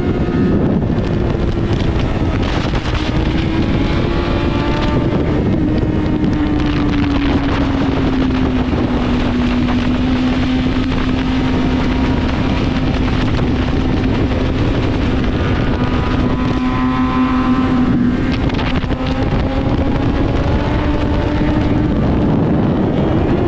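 Motorcycle engine running at a fairly steady speed, its pitch sagging slowly and then holding level, with heavy wind rush over it.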